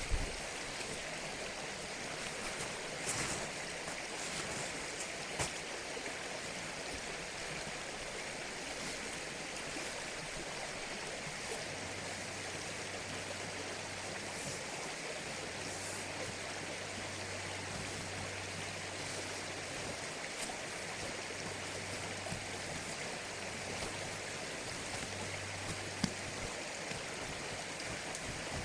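Mountain stream flowing steadily, an even rush of running water with a few faint clicks.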